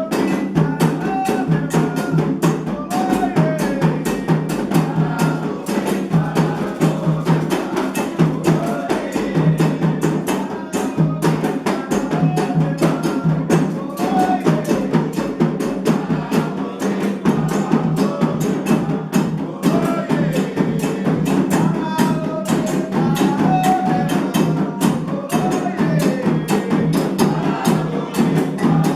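Candomblé ritual music: hand drums and a struck bell keep up a dense, fast rhythm all the way through, with voices singing over it.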